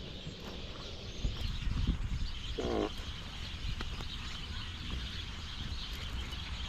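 A large flock of birds chattering and calling overhead, with one short, harsh call about two and a half seconds in.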